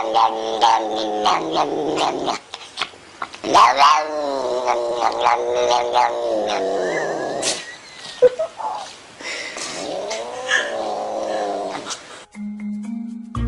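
Domestic cat yowling: three long, drawn-out calls that waver up and down in pitch, with short pauses between them. The yowling stops near the end.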